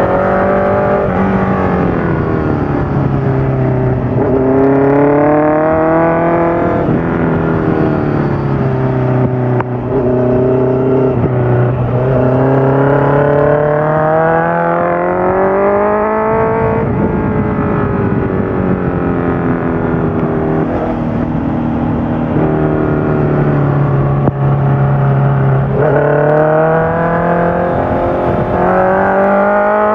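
Honda CBR650F's inline-four engine through a full Akrapovic exhaust with the dB killer fitted, running under way: the revs climb and drop sharply twice at gear changes, hold fairly steady for a while, then climb again near the end.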